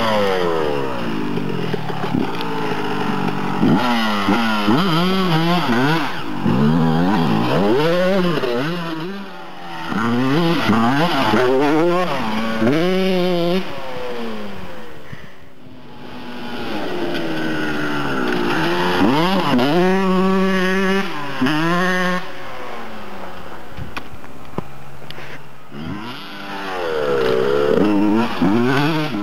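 Honda CR125 (1999) 125 cc single-cylinder two-stroke motocross engine revving hard as the bike rides past, its pitch climbing and dropping back again and again. It fades briefly about halfway through as the bike rides off, then comes back loud.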